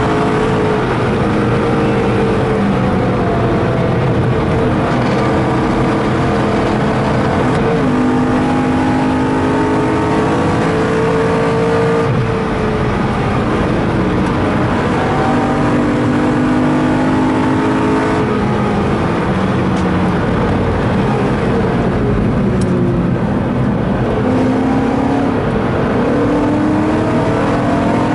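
BMW M3 E92's 4.0-litre V8 heard from inside the cabin under hard driving, its pitch climbing and then dropping at gear changes several times, over steady tyre and road noise.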